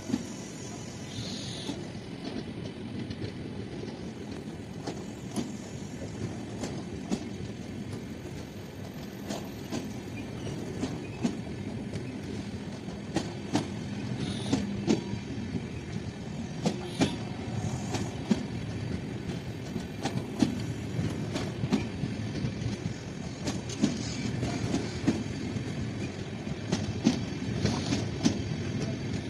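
Tirumala Express passenger coaches rolling past along the platform: a steady low rumble of wheels on rail, with sharp clicks of wheels crossing rail joints that come more often and louder in the last third.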